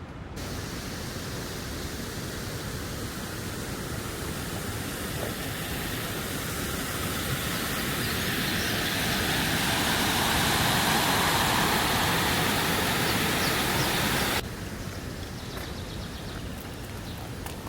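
Rushing mountain stream water, a steady roar that grows gradually louder for about fourteen seconds, then drops suddenly to a quieter outdoor background.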